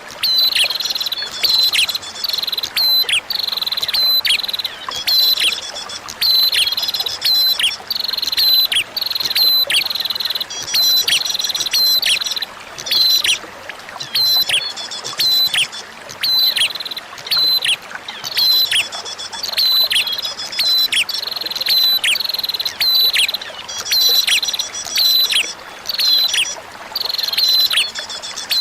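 Prinia (prenjak) song: sharp, high chirping calls, each with a quick falling sweep, repeated about twice a second with only short pauses, over a steady murmur of flowing water.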